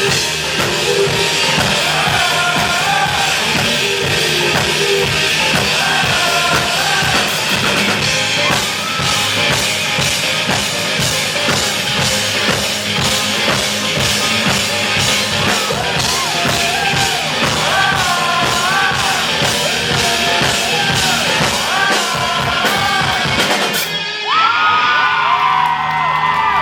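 Rock band playing live with drum kit and sung vocals. The song stops abruptly near the end and the audience breaks into cheering, screaming and whooping.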